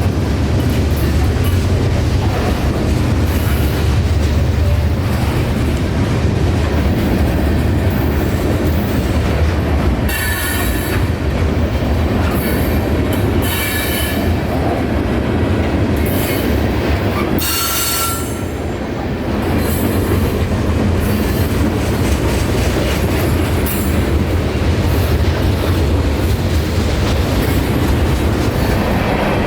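Freight train cars rolling past on the main line, a steady loud rumble and clatter of wheels on rail. Short wheel squeals break in a few times around the middle.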